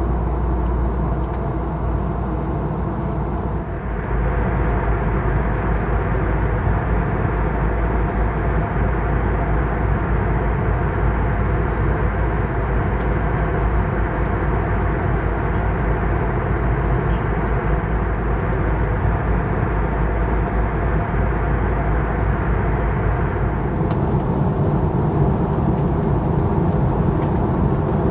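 Steady roar of an Airbus A321neo's engines and airflow in flight, heard from inside the cabin. The sound shifts abruptly about four seconds in, growing louder and brighter, and shifts back near the end.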